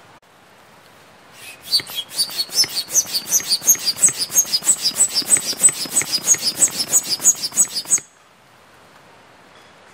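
A bird calling a fast, even run of sharp, high chirping notes, about six a second, starting about a second and a half in and breaking off suddenly near the end.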